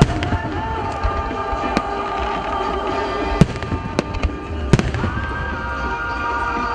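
Firework shells bursting with sharp bangs over music from loudspeakers: one bang right at the start, then a cluster of four about three and a half to five seconds in, under a steady low rumble.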